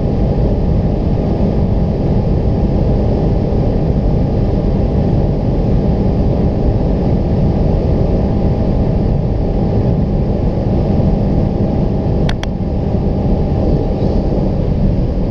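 Renault Mégane 4 RS Trophy 300's 1.8-litre turbocharged four-cylinder pulling steadily at high revs in sixth gear near top speed, heard from inside the cabin. A brief sharp click about twelve seconds in, with the sound dipping for a moment.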